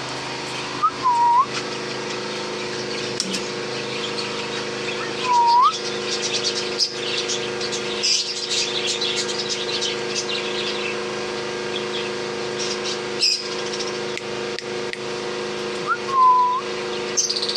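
Aviary birds chirping and twittering, busiest in the middle, with three short whistles that dip and then swoop upward. A steady low hum runs underneath.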